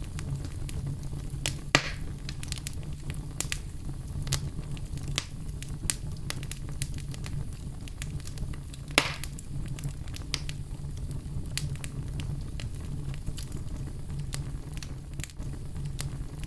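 Fire in a fireplace crackling steadily over a low rumble, with frequent sharp snaps and two louder pops, about two seconds in and about nine seconds in.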